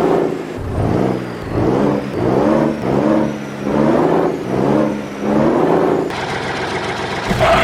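Motor vehicle engine revving over and over, its pitch rising and falling about six times, roughly once a second, then settling into a steadier running sound that gets louder near the end.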